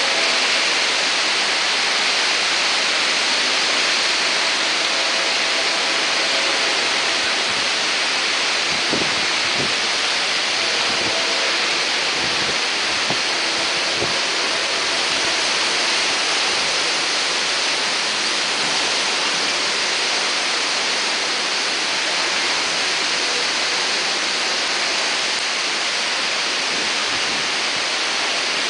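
Heavy rain in a hurricane squall, a loud steady hiss, with a few soft low thumps around the middle.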